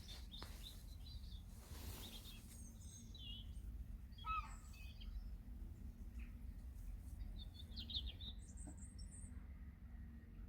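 Small birds chirping faintly in a few scattered bursts of high chirps, over a steady low background rumble.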